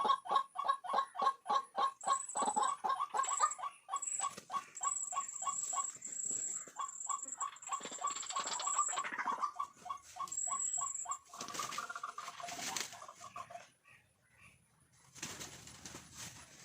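White-breasted waterhen calling: a long run of short, even, repeated notes, about four a second, for roughly the first eleven seconds, with a thin high tone coming and going above it. Then a couple of seconds of rustling or flapping, a brief lull, and a hiss near the end.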